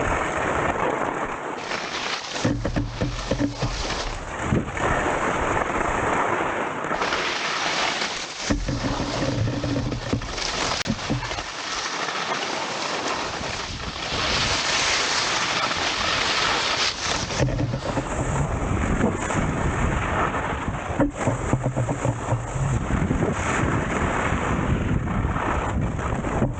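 Wind buffeting the camera microphone: a loud, unbroken rushing rumble that swells and eases every few seconds.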